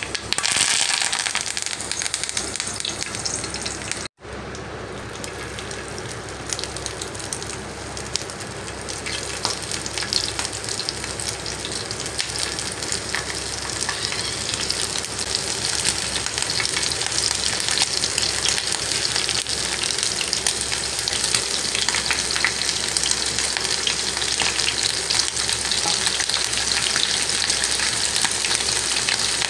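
Curry leaves and masala-coated prawns frying in hot oil in a pan: a continuous crackling sizzle, slowly growing louder, with a brief break about four seconds in.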